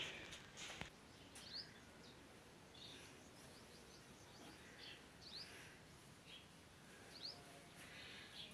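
Near silence with a faint background hush and small birds chirping faintly, a short rising chirp every second or so.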